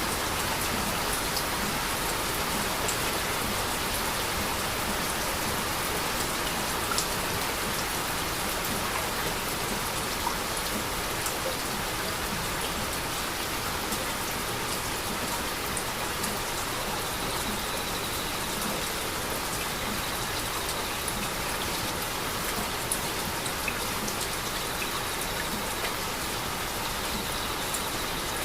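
Heavy rain falling steadily at night, with scattered single drops landing in sharp ticks on a surface.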